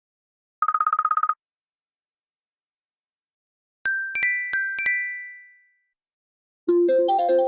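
Phone ringtones and alert tones played back one after another. About half a second in there is a brief, rapidly pulsing electronic tone. Near the four-second mark come four quick bell-like chimes that ring out, and near the end a new ringtone melody starts.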